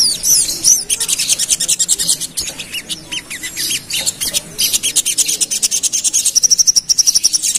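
Little spiderhunter (sogok ontong) singing a loud, rapid chatter of high notes, many short notes a second without a break, typical of the bird's agitated 'ngerap' song. Near the end it settles into a quick run of even notes on one pitch.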